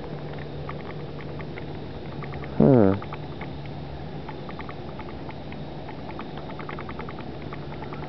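A steady low hum with many small, irregular ticks over it. About three seconds in, a short voice exclamation falls in pitch.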